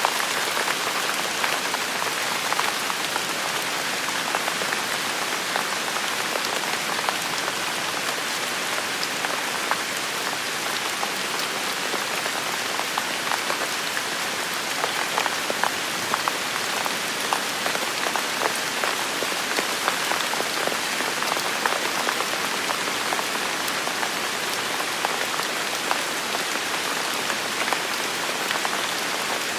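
Steady rainfall: an even hiss of rain with dense, close patter of individual drops striking a surface.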